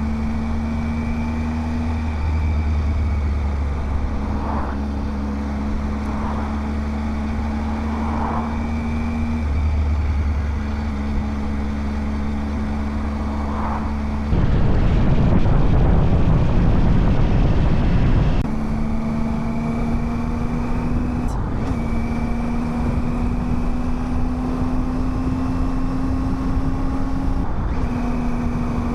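Motorcycle engine running at road speed, a steady hum broken briefly a few times. A louder rush of noise takes over for about four seconds midway.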